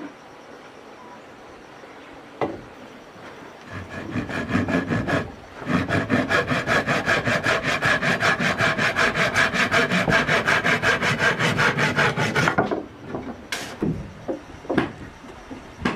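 Hand saw cutting through wood in quick, even strokes for several seconds, after a shorter first burst of sawing; it stops, and a few sharp knocks follow near the end.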